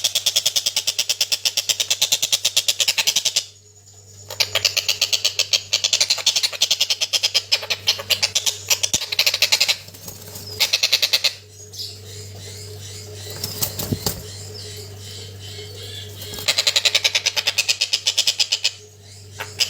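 Young stork-billed kingfisher giving begging calls: fast runs of harsh repeated notes, about five a second, in bouts of several seconds broken by short pauses. A faint steady low hum lies underneath.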